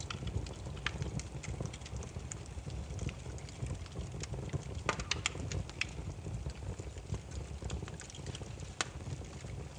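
Burning firewood crackling and popping: scattered sharp snaps over a steady low rumble of the flames, with a quick run of pops about five seconds in.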